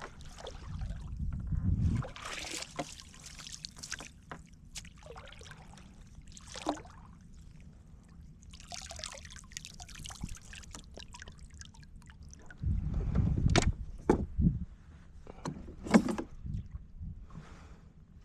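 Water splashing and lapping around a kayak, with scattered sharp knocks and clicks of gear against the hull. There are two bursts of low rumble, one in the first couple of seconds and another about two-thirds of the way through.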